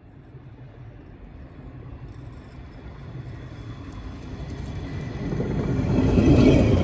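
DSB IR4 (class ER) electric multiple-unit train running in along the platform, its rolling rumble growing steadily louder as it approaches and loudest as the front cars pass close by near the end. A few thin tones rise over the rumble as it passes.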